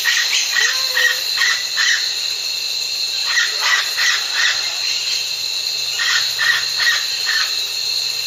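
An animal's short, repeated calls in runs of four or five, about three a second, with pauses between the runs, over a steady high-pitched tone.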